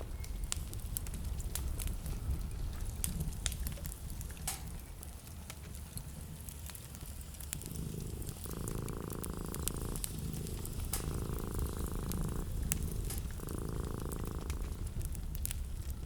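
Wood fire crackling with a steady low rumble, scattered sharp pops throughout. In the second half a steady buzzing sound comes three times, each about a second and a half long, with short breaks between.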